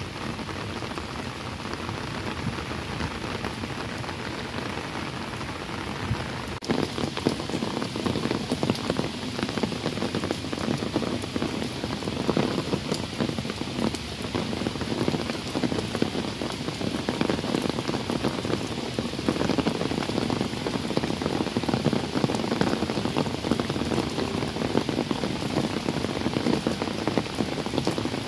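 Steady rain falling on a wet paved path. About six and a half seconds in it turns louder and denser, a close patter of drops hitting an umbrella held overhead.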